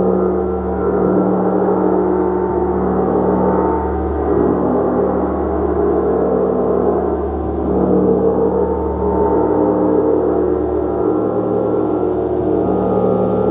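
Gong played continuously, a sustained wash of many overlapping overtones that swells and ebbs in slow waves every few seconds without distinct strikes.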